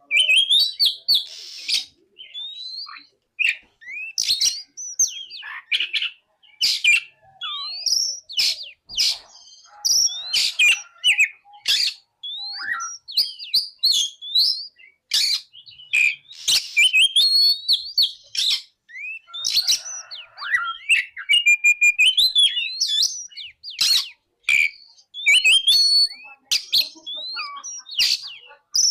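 Oriental magpie-robin (kacer) singing: a fast, varied string of whistled notes sliding up and down, mixed with sharp clicks and broken by brief pauses.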